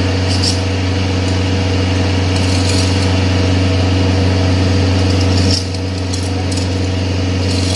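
Excavator diesel engine running steadily under load, with a constant low hum; it eases off slightly about five and a half seconds in. Faint clinks of metal come through a few times.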